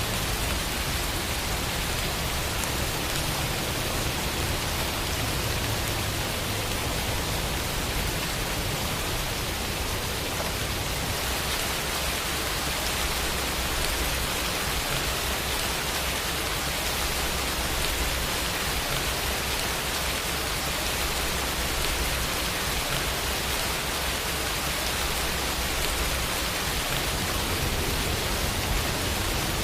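Steady rainfall: an even hiss of rain with fine pattering of drops on surfaces, no change in intensity.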